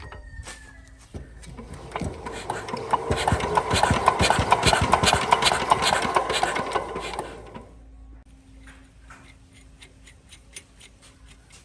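A machine running with a rapid, regular clatter that builds up from about a second in and dies away after about seven and a half seconds, leaving faint ticking.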